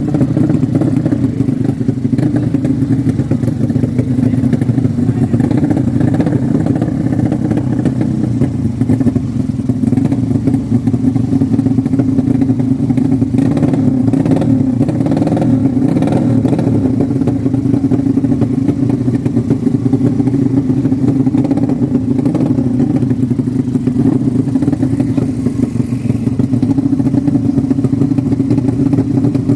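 Motorcycle engine running continuously at a steady, fairly high speed, its pitch holding nearly level.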